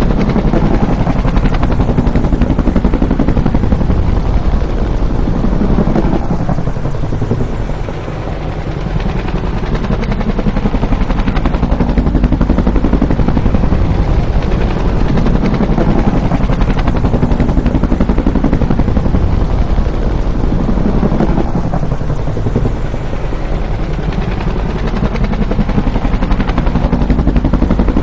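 Bell UH-1 'Huey' helicopter's rotor chopping rapidly and loudly as it flies past. The sound eases briefly twice, about a third of the way in and again past three quarters.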